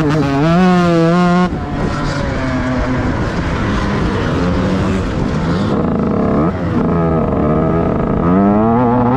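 Motocross bike engine ridden hard, its pitch held high at first and then dropping off as the throttle is shut about a second and a half in. Near the end it revs up again with a rising pitch.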